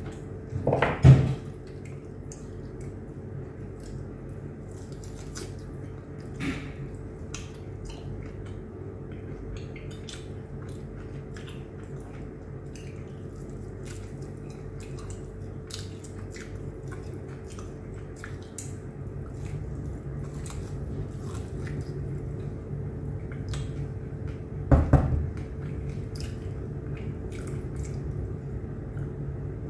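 Eating by hand: chewing on a fried chicken leg and biryani, with quick small clicks and mouth sounds over a steady low hum. Two louder knocks stand out, about a second in and again late on.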